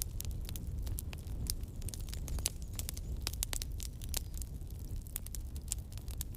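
Wood campfire burning with a steady low rumble and frequent irregular sharp crackles and pops.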